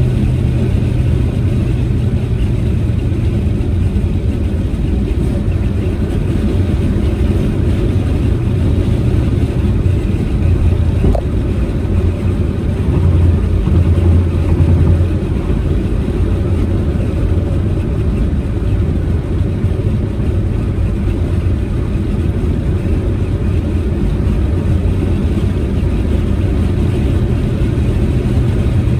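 Proton Saga MC2's inline four-cylinder engine and tyre noise while the car is driven on the road, a steady drone that swells briefly about halfway through as the engine pulls harder.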